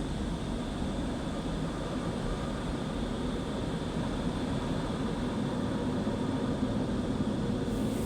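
Automatic car wash machinery heard from inside the car's cabin: a steady rumbling whir with a faint constant hum over it.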